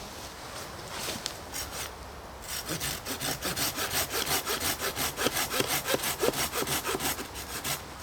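A hand saw cutting through wood: a few slow strokes at first, then about two and a half seconds in a fast, even back-and-forth run of strokes that goes on until just before the end.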